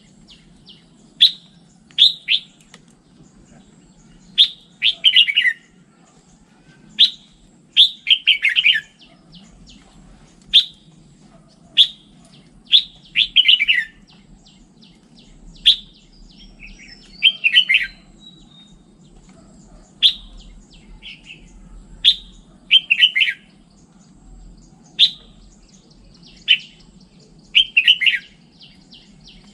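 Red-whiskered bulbul singing: short, clear, chirpy phrases repeated every second or two.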